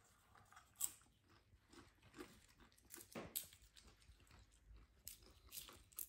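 Faint crunching of plain popcorn being chewed, irregular sharp crunches with the loudest a little under a second in and a little over three seconds in.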